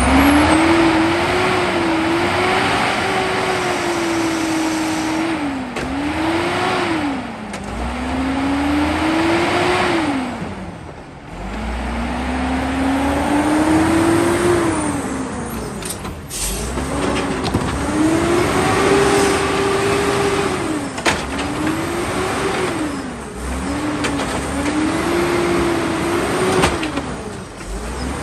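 Garbage truck engine revving hard over and over, its pitch climbing and dropping back about ten times, with a few sharp knocks in between.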